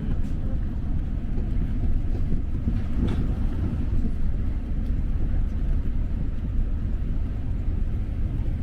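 Paris Métro line 6 train running, a steady low rumble heard from inside the carriage, with one brief click about three seconds in.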